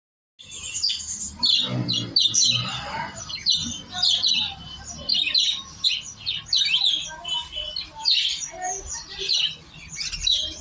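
Many caged budgerigars chattering at once: a dense, unbroken mix of short chirps and squawks that starts abruptly about half a second in.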